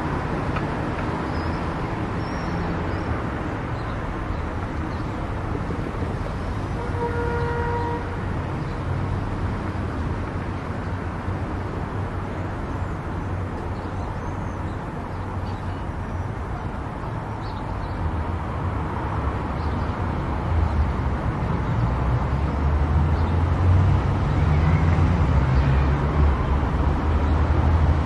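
Steady road and tyre noise of a car driving on a highway, with a deep rumble that grows louder near the end. A brief pitched tone sounds once, about seven seconds in.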